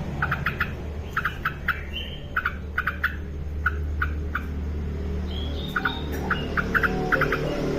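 Yellow-vented bulbul (trucukan) calling actively: quick clusters of two to four sharp chips, with a couple of brief higher whistled notes, over a steady low hum.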